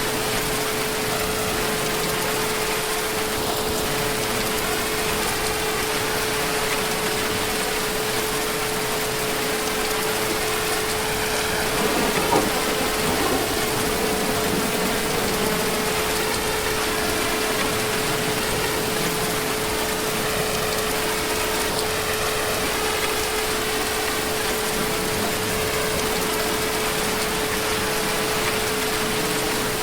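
Heavy rain falling steadily, an even hiss with a constant pitched hum running underneath it. A brief small knock about twelve seconds in.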